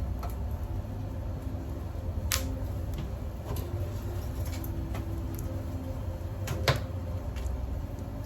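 Small twig fire burning in a cold wood-fired pizza oven, crackling with a few sharp pops and snaps over a steady low rumble.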